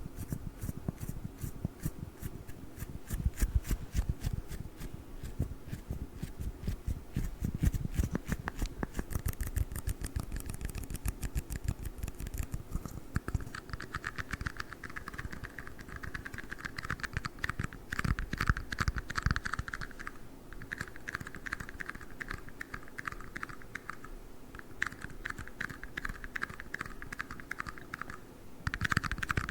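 Fast tapping and scratching on tiny red cups: dense, quick, irregular clicks. From about halfway a brighter clicking layer joins and stops briefly a few times.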